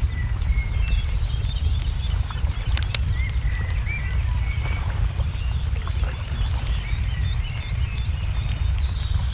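Wood fire crackling with irregular sharp pops over a low steady rumble, while small songbirds chirp and twitter throughout.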